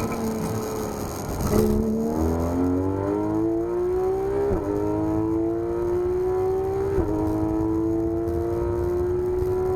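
Porsche 991 GT3 RS's naturally aspirated flat-six engine. Its pitch falls as the car slows, then climbs hard under full acceleration, dropping sharply twice as the gearbox shifts up.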